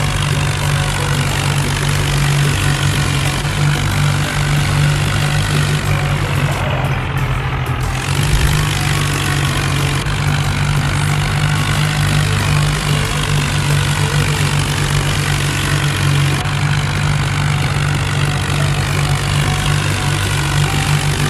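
Tractor diesel engine running steadily at an even speed, with a strong low, constant note.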